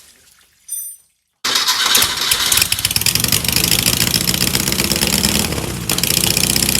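Porsche 914's air-cooled Type 4 VW flat-four engine running loud and steady, its exhaust pulses coming fast and even. It comes in abruptly about a second and a half in, after a brief quiet stretch.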